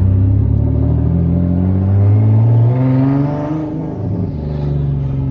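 Single-turbo Nissan 370Z's 3.7-litre V6 running on open dumps with no exhaust fitted, accelerating with its engine note climbing for about three seconds, then easing off around four seconds in.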